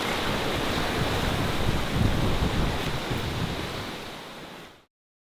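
Sea noise of waves and rushing water around a sailing yacht running fast downwind, with wind buffeting the microphone. It fades out to silence about four and a half seconds in.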